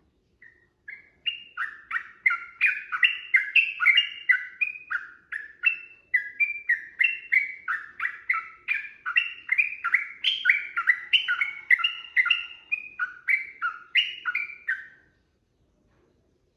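Yellow-vented bulbul (trucukan) singing a long unbroken run of short, quick chirping notes, about three a second, starting about half a second in and stopping about a second and a half before the end.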